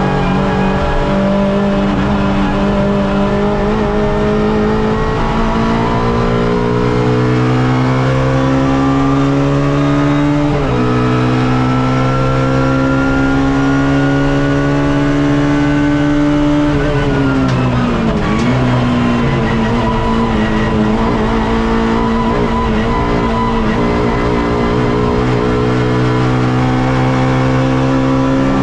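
Suzuki Swift race car's engine heard from on board, accelerating hard with revs climbing. The revs drop sharply on an upshift about a third of the way in, then climb again. A little past halfway they fall away under braking and downshifting before the engine pulls and climbs once more.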